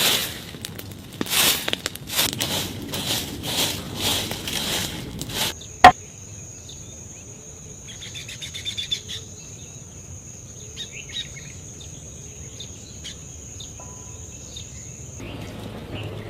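Outdoor insect drone, one steady high-pitched tone, with scattered bird chirps. It starts about five seconds in and cuts off abruptly near the end. Before it come a run of irregular knocks and scrapes and a single sharp, loud click about six seconds in.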